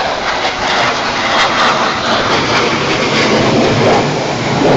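Waterfall rushing over pink quartzite ledges: a loud, steady wash of water noise without a break.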